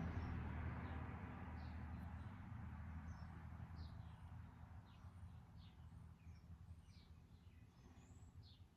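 Faint songbird chirps, short quick notes sliding downward, scattered through the seconds, over a low steady hum. A hiss-like noise fades away over the first few seconds.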